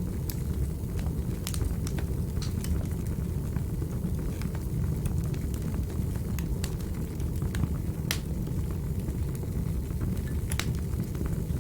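Wood fire in a fireplace crackling: a steady low rumble of the flames with irregular sharp pops and snaps, the loudest about eight and ten and a half seconds in.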